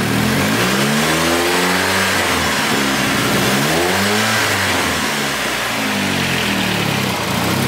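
Car engine, running on a rough base-map tune, revved up and let back down about three times, its pitch climbing and falling with each blip.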